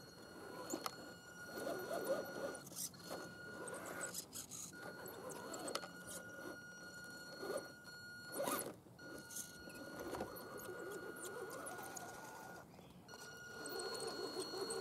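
Axial SCX10 RC crawler's electric motor and drivetrain running with a steady high whine that cuts out briefly several times as the throttle comes off, over irregular rustling and clicks.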